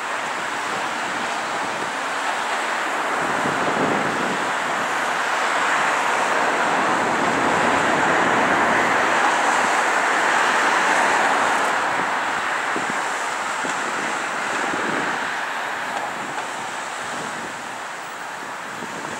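City street traffic with wind, a steady rushing noise that swells louder through the middle and eases off near the end.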